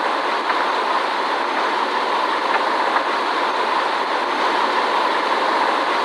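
Steady jet engine and airflow noise inside the cabin of a Boeing 787 airliner: an even roar that holds the same level throughout.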